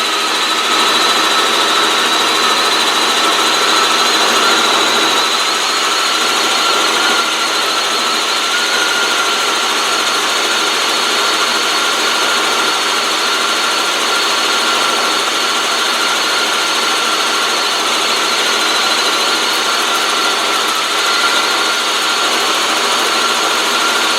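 Helicopter turbine and rotor noise heard from aboard in flight: a steady loud rush with a high turbine whine that edges slightly up in pitch over the first several seconds and then holds.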